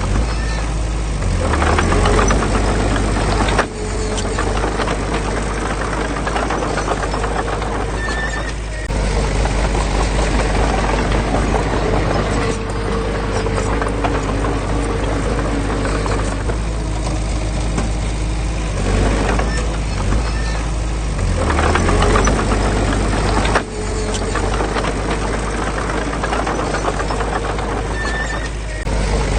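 Diesel engine of heavy earthmoving machinery running steadily, with a deep low hum and mechanical clatter. The sound drops out abruptly for an instant a few times.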